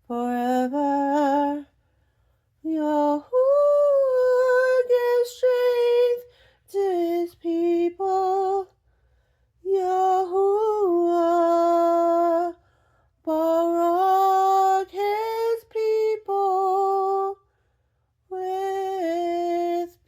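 A lone mezzo-soprano voice singing unaccompanied in long held notes, in phrases broken by short silent pauses.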